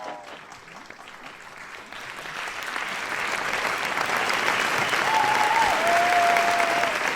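Theater audience applauding, swelling from a quiet start to a full burst of clapping. Partway through, a single held whistle-like tone steps down in pitch.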